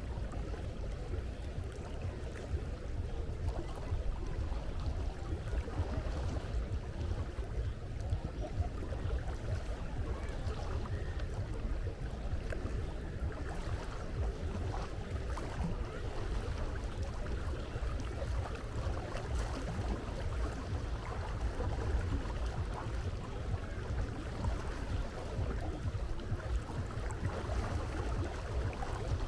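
Sea water washing and lapping steadily, under a low, constant rumble.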